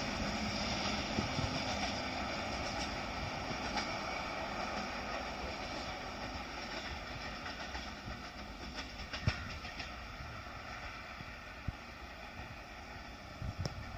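An Indian Railways passenger train, banked by two WAG-7 electric locomotives at its rear, climbs away up a gradient. The running rumble of wheels on rail fades steadily into the distance, with a few sharp clicks in the last few seconds.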